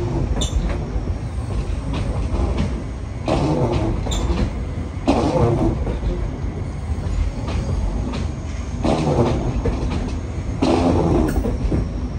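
New Intercity Fleet Mariyung (D set) double-deck electric train rolling slowly along the platform, a steady low rumble with a clatter every few seconds as the wheels and bogies go by.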